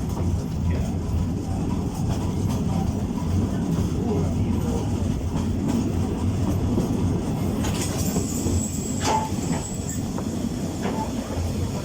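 Narrow-gauge forest railway train running along the track: a steady low rumble with wheels clicking over the rail joints. A high wheel squeal sets in about eight seconds in and lasts about two seconds.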